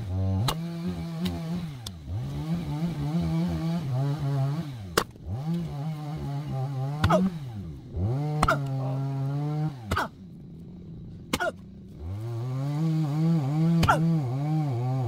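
A small engine runs, its pitch dipping and recovering again and again as if under load, and dropping out briefly about ten seconds in. Through it come about ten sharp cracks of oak firewood being split.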